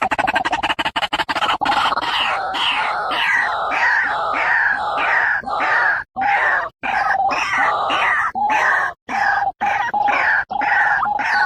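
White-breasted waterhen (ruak-ruak) calling: a fast stuttering run of notes, then a steady string of repeated croaking 'ruak' calls, about three a second, with a few brief breaks.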